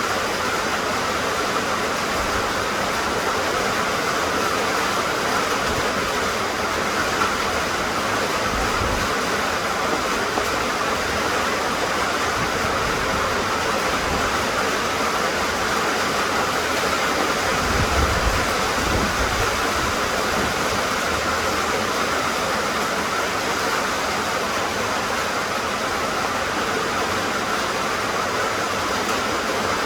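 Steady rain falling, an even hiss of drops, with a brief low rumble about eighteen seconds in.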